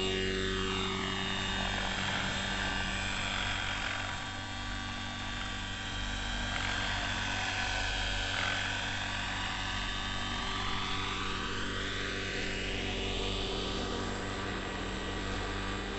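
Neo Caliber 50 RC helicopter's carbureted engine and rotors running steadily in flight, a constant buzzing whine whose tone sweeps slowly up and down as the helicopter moves about.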